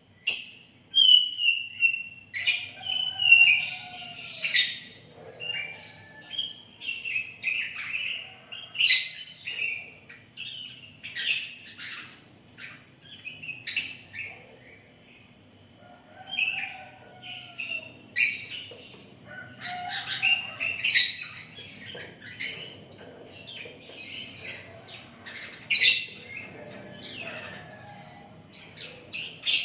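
Sooty-headed bulbul (kutilang) singing busily: short whistled phrases and chirps repeated every second or two.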